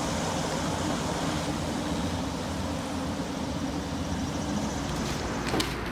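A steady engine running at a constant speed, with a low, even drone.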